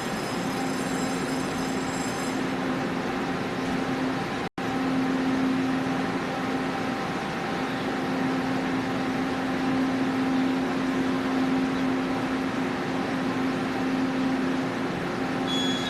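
Train at a station platform giving off a steady hum on one low pitch, with a thin high whine over it for the first couple of seconds. The sound cuts out for an instant about four and a half seconds in.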